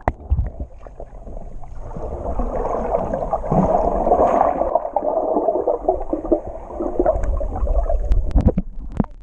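Water heard through a GoPro held underwater: a muffled, gurgling rush that builds over the first couple of seconds, with a few sharp clicks near the end.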